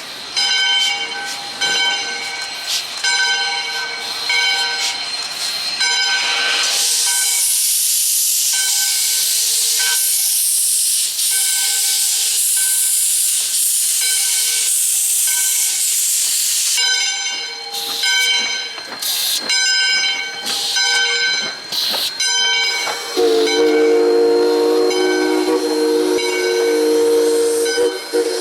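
Steam locomotive at work: its bell rings in a steady rhythm. From about six seconds in, a loud hiss of released steam lasts some ten seconds. Near the end the chime steam whistle sounds one long blast.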